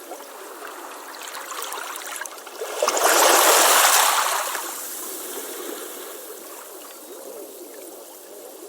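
Ocean waves washing on a beach, with bubbling foam throughout. One wave breaks about three seconds in, the loudest moment, then slides back into a softer wash.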